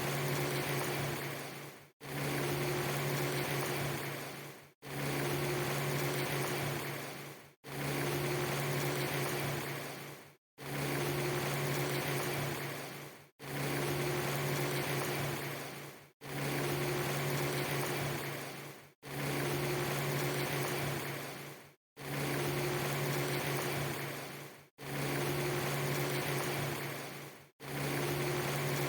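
Rain-ambience track made of one clip a few seconds long: a steady hiss with a low hum under it. It repeats about every three seconds, each repeat fading and breaking off into a brief silence before starting again.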